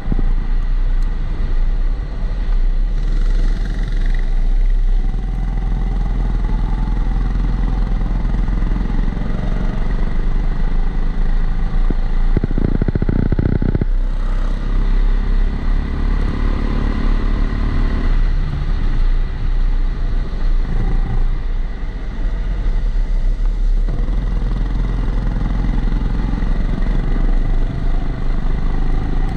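Kombikart Eco kart engine heard onboard, its pitch rising and falling with the throttle as it laps, with a thin steady whistle over it. The sound comes through a camera housing, which adds a recurring extra noise, and there is a short rattle about halfway through.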